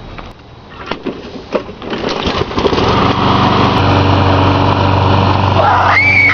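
A small engine starts up about two and a half seconds in and runs steadily and loudly, after a few light taps. Near the end a short high sound rises and falls over it.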